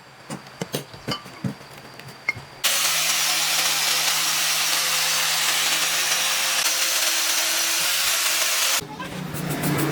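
A few light metallic clicks of parts being handled, then a power tool running with a loud, steady hiss that starts suddenly about three seconds in and cuts off about six seconds later.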